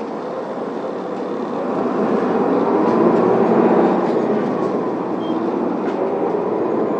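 Isuzu Erga city bus's diesel engine heard from inside the cabin as the bus pulls away from a stop: the revs climb for about three seconds, then drop back and carry on under load.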